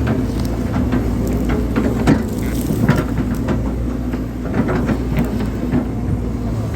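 Hydraulic excavator's diesel engine running steadily under load, with frequent short knocks and clanks from the machine as it works.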